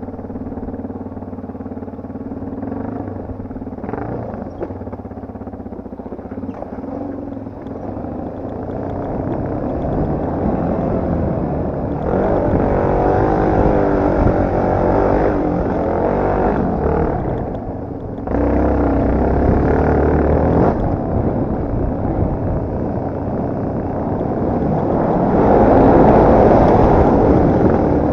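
Yamaha TT250R dirt bike's single-cylinder four-stroke engine running on a ride, its revs rising and falling, with sudden jumps in loudness about twelve and eighteen seconds in and at its loudest near the end.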